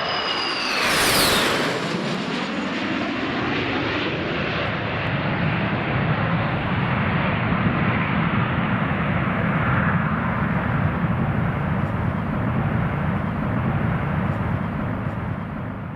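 Jet airliner passing close by: the engines' high fan whine drops sharply in pitch in the first second, then a steady low jet rumble continues.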